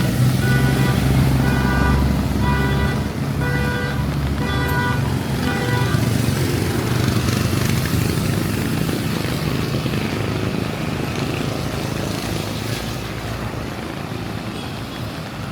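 A large vehicle engine running close by, with an electronic beep repeating about once a second that stops about six seconds in. After that come road traffic and rain, slowly fading.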